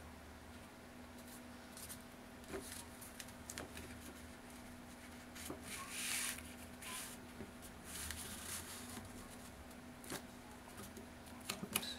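Paper rustling and light taps as paper tags and booklet pages are handled, in short bursts with a few soft clicks, over a faint steady hum.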